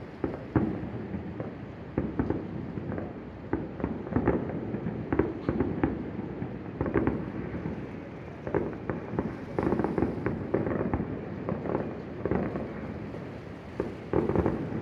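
Firework display heard across a bay: an irregular run of shell bursts, sharp bangs and booms following one another every second or so, some in quick clusters.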